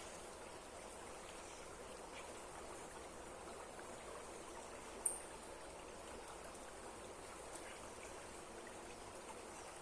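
Steady rushing of water from a river waterfall, with one short, sharp high click about five seconds in.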